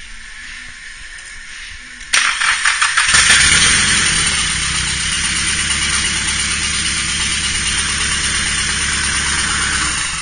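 Nissan SR20DET 2.0-litre turbocharged four-cylinder engine started: the starter cranks in quick pulses for about a second, about two seconds in. The engine then catches and runs steadily.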